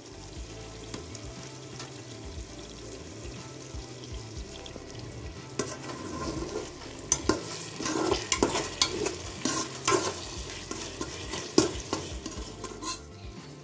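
Browned onions with ginger-garlic paste frying in ghee and groundnut oil in a cooking pot: a steady sizzle. From about halfway, a spoon scrapes and stirs against the pot again and again.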